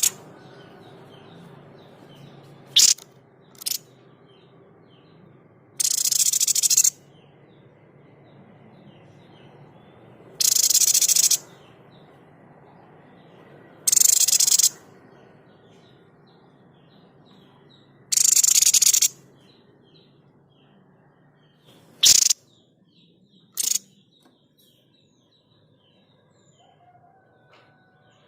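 Tepus dada putih, the babbler known to bird keepers as the 'sniper' bird, giving its harsh, noisy 'shot' calls again and again every few seconds: some about a second long, others short sharp snaps. Faint chirping goes on behind.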